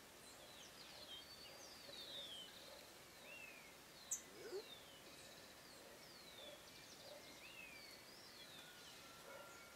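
Faint bird calls: repeated short whistled notes, most sliding down in pitch, with a brief sharp click about four seconds in.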